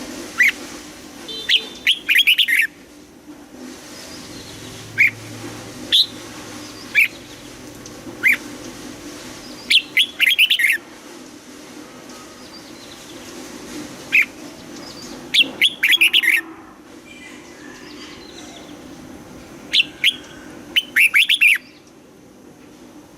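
Red-whiskered bulbul singing: short, sharp whistled notes every second or so, broken by quicker bursts of several notes about 2, 10, 16 and 21 seconds in.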